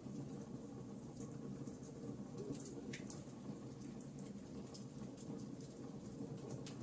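Wood fire crackling in a fireplace: scattered small crackles and snaps over a low steady background noise, one louder snap about three seconds in.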